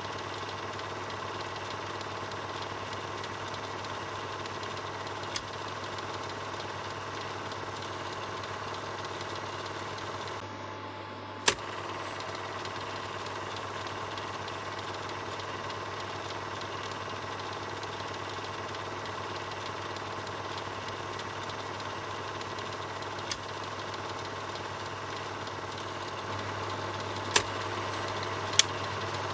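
Film projector running: a steady mechanical whirr over a constant low hum, broken by a few sharp clicks, the loudest about a third of the way in and two more near the end.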